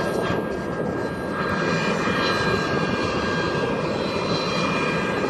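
Jet airliner engines running steadily: an even rushing noise with a few thin, steady high-pitched whining tones over it.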